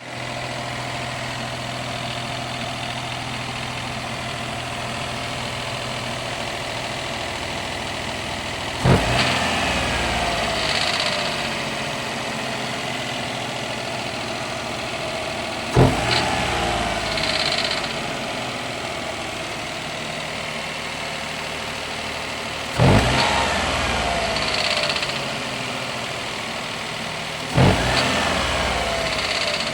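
Daihatsu Esse's KF three-cylinder engine idling cold and blipped four times, each rev falling back to idle, with a brief clatter as the throttle is released. The clatter comes only when cold, and the owner asks whether it is piston slap.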